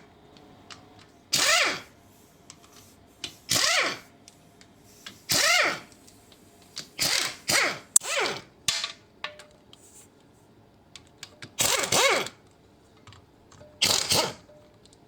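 Power tool run in short bursts, about ten of them, each sliding down in pitch as it spins.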